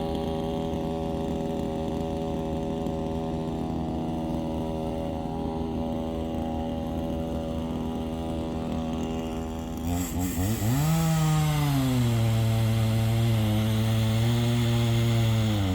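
Chainsaw felling a leaning tree: the saw runs steadily at a lower speed, then about ten seconds in it is revved up sharply and runs at a high, louder speed, its pitch wavering and dipping briefly near the end.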